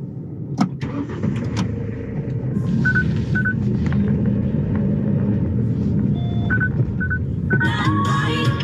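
Hyundai Solati campervan's engine running under load with the wheels spinning in deep snow as it strains to pull free, a steady rumble that swells a little after a couple of seconds. Several short electronic beeps sound from the van partway through, and background music comes in near the end.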